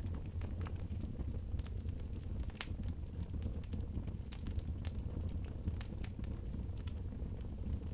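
Wood fire crackling in a fireplace: irregular sharp snaps over a steady low rumble.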